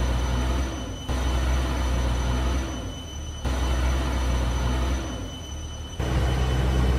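JCB backhoe loader's diesel engine running heavily, a deep steady drone that drops back and surges up abruptly several times, with a faint steady high whine alongside.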